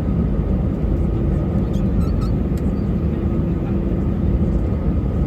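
Airbus A320 cabin noise from a window seat: a steady drone of engines and airflow with a faint steady hum, unchanging, and a few faint small ticks a couple of seconds in.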